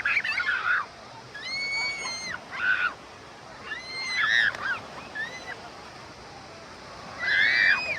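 Children squealing in short, high-pitched cries, about six of them spread out, over a faint steady wash of water.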